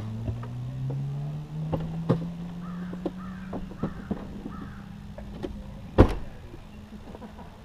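Motorcycle engine whose pitch rises over about two seconds and then holds steady, with scattered clicks and a sharp knock about six seconds in. A few bird calls, crow-like, sound in the middle.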